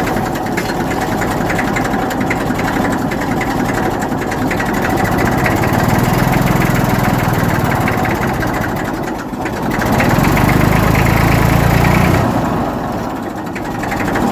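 Massey Ferguson tractor's diesel engine running while reversing with a loaded trailer. It gets louder twice, from about a third of the way in and again for a couple of seconds, before easing back near the end.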